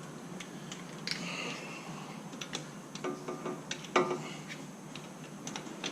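Ignition lead rubber boots and terminals being pushed onto a VW air-cooled engine's distributor cap and spark plugs: a string of small clicks and knocks with brief rubbery squeaks, the loudest click about four seconds in.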